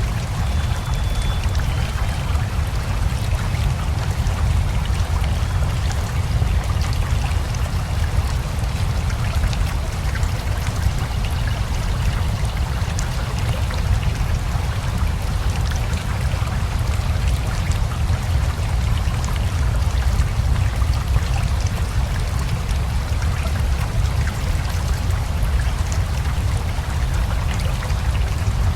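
Steady rain mixed with a rushing river: a constant, even wash of water noise with a deep rumble underneath that does not let up.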